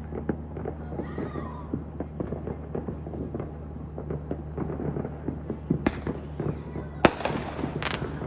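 Fireworks going off across town: a steady patter of small pops and crackles, with sharper bangs about six, seven and eight seconds in, the one about seven seconds in the loudest.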